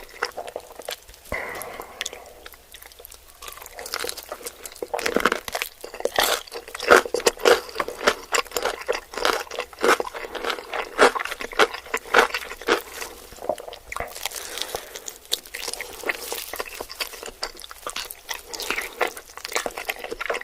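Close-up chewing and biting into spicy chicken: wet, crunchy bites and chews in quick irregular succession, louder and denser from about six seconds in.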